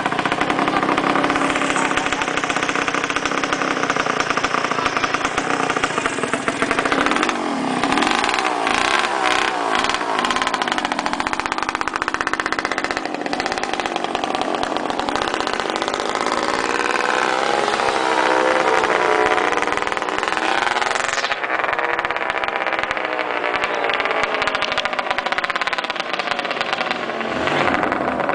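Motorcycle engines running hard, the pitch rising and falling again and again as they rev up and ease off.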